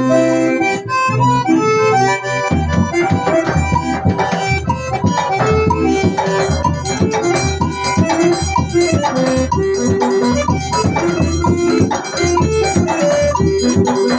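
Accordion playing a forró melody. About two and a half seconds in, a steady beat of drum and sharp percussion ticks joins it.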